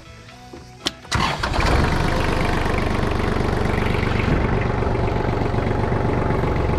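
Kubota KT215 tractor's diesel engine turning over and catching about a second in, then running at a steady idle.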